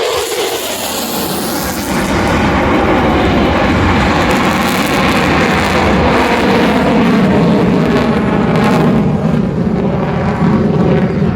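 A formation of classic and current military aircraft making a flypast, with a loud, continuous engine roar that falls in pitch during the first couple of seconds, then cuts off abruptly at the end.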